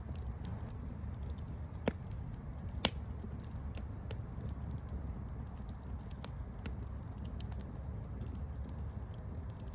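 Campfire crackling: a low steady rumble of burning wood with scattered sharp pops and snaps. Two louder pops come about two and three seconds in, the second the loudest.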